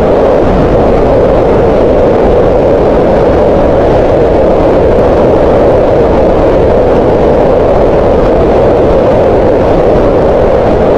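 Green noise: a loud, steady, unchanging rush of hiss, strongest in the middle pitches, with less weight in the deep lows and the highs.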